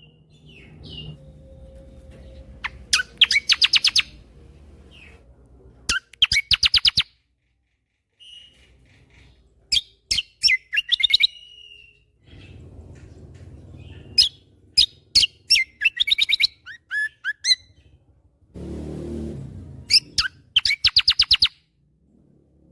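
Kecial kombo (cucak kombo) songbird singing in rapid-fire 'tembakan' phrases: repeated trains of fast, sharp, clicking notes, each about a second long, separated by short whistled glides and chips.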